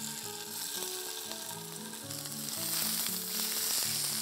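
Paneer cubes shallow-frying in hot oil in a stainless steel pan, with a steady sizzle that grows louder about halfway through.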